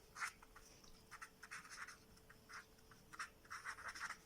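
Handwriting: faint, short, irregular scratching strokes of writing, several in quick runs, over a faint steady hum.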